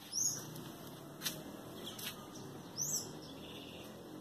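A bird chirping outdoors: two loud, high arched chirps, one right at the start and another nearly three seconds later, with fainter short sharp notes in between.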